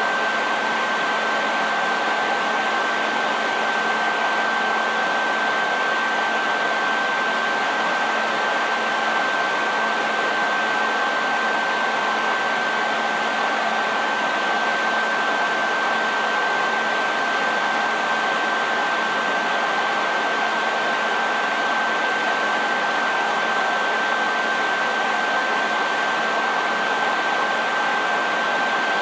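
Electric hair dryer running continuously at a constant setting: a steady rush of air with a high, thin whine from its motor and fan over it.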